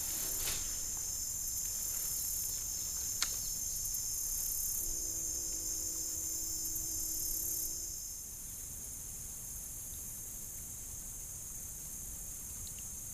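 Steady, high-pitched drone of insects in the creekside trees, which drops in level about eight seconds in. A single sharp click about three seconds in, and a low steady hum for about three seconds in the middle.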